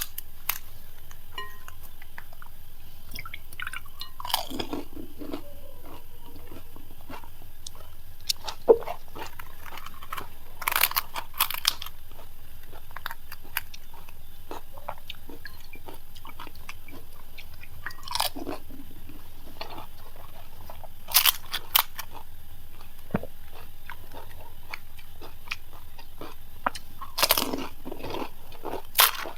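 Crisp panipuri shells being bitten and chewed, crunching at irregular moments, with louder crunches every few seconds.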